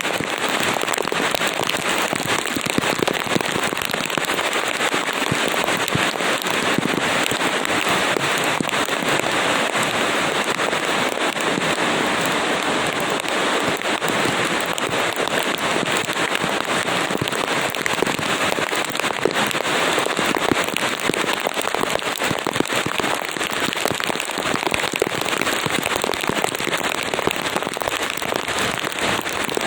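Steady heavy rain falling on a surface, a dense hiss with many fine crackling drop impacts.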